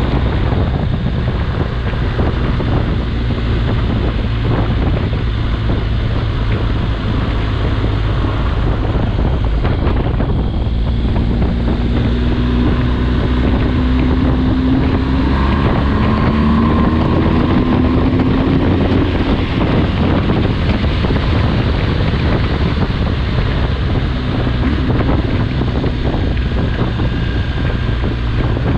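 BMW R 1250 GS boxer-twin engine running under way at road speed, with wind buffeting the microphone. A tone rises for a few seconds in the middle.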